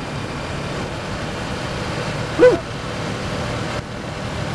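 Kawasaki Versys motorcycle engine running with steady wind and road noise, and a brief rising-and-falling high tone about halfway through.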